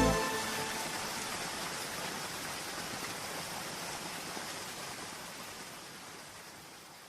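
Steady hiss of rain, fading out slowly as the recording ends. The last piano notes die away in the first second.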